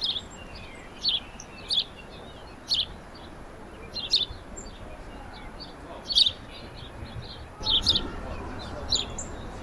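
Small songbirds at a backyard feeder chirping: a run of short, sharp, high chirps about once a second, over steady faint background noise.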